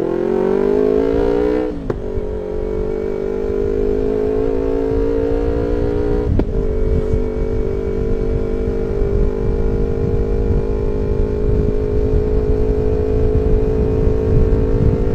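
Two-cylinder motorcycle running through an aftermarket carbon GPR-style silencer with a deep exhaust note. The pitch drops over the first couple of seconds, then settles into a steady note that slowly climbs, with brief clicks about two seconds in and again about six seconds in.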